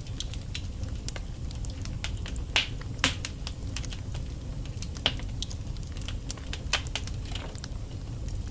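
Wood fire burning in a fireplace: burning logs crackling, with scattered sharp pops over a low steady rumble of the flames, the loudest pops about two and a half, three and five seconds in.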